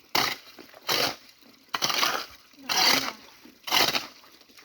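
About five rough swishing strokes in wet ground or water, roughly a second apart, as a stream bed is cleared.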